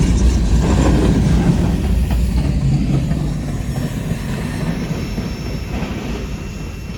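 Freight train rolling past: the rumble of rail cars on the track with clicking wheels and some wheel squeal, fading away from about two seconds in.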